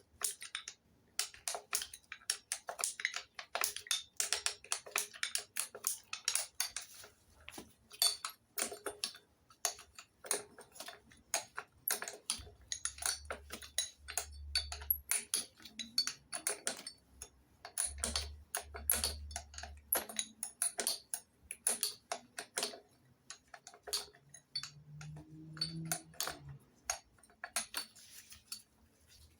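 Metal hand tools working fasteners on an engine: a long run of quick, irregular metallic clicks and light clinks of steel parts.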